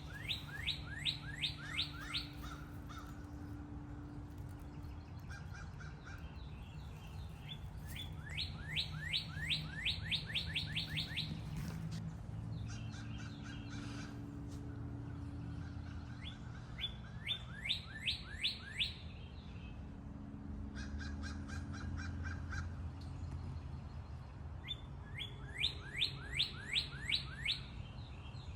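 A songbird singing a phrase of rapid, downward-sliding whistled notes, repeated four times about eight seconds apart, over a steady low hum.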